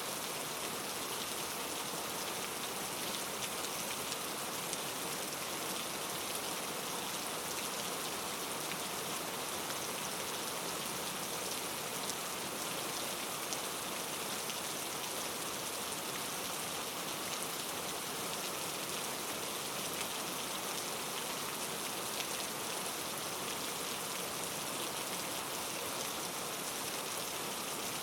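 Steady rain falling, a continuous even patter of drops with fine individual drop ticks through it.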